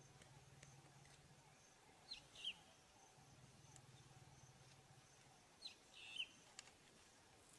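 Quiet background with a bird calling twice, about three and a half seconds apart, each call a pair of quick, high, falling notes.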